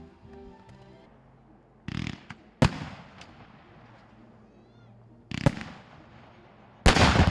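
Fireworks going off: several sudden bangs with echoing tails. The sharpest comes about two and a half seconds in, and the loudest near the end.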